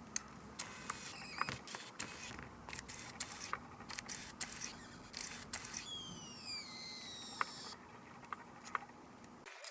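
Sharp clicks and small taps of a Canon PowerShot S110 compact camera being handled and worked on, with a brief falling whine about six seconds in.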